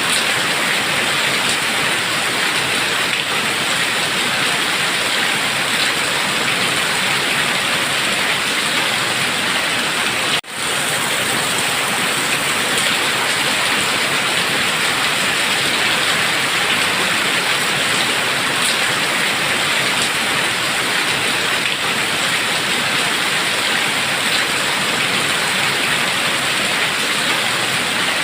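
Heavy rain pouring steadily, a dense even hiss with no let-up, cut off for a split second about ten seconds in.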